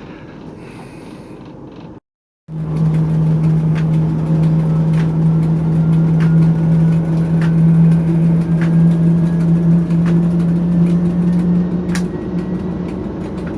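TEP70 locomotive's 16-cylinder diesel engine running under load with a loud steady drone, coming in after a short cut about two seconds in. Sharp clicks sound about once a second, and a faint whistle slowly rises in pitch.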